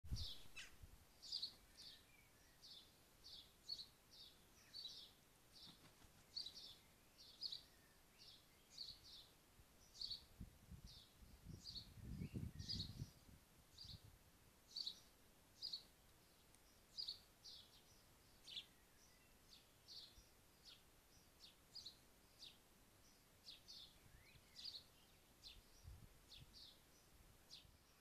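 A bird chirping over and over in short, high notes, about two a second, faint against the garden background. There is a low rumble about twelve seconds in and a shorter one near the end.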